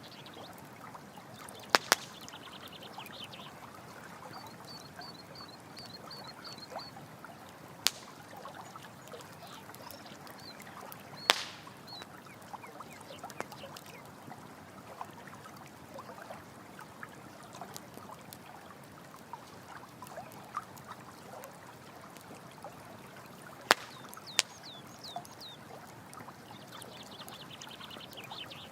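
Steady trickle of running water with a campfire crackling, a few sharp loud pops standing out. Trains of quick high chirps come and go over it.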